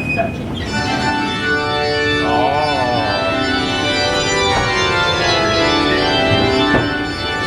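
Organ music with held chords and a wavering, vibrato-like note about two to three seconds in, played as a dark-ride soundtrack.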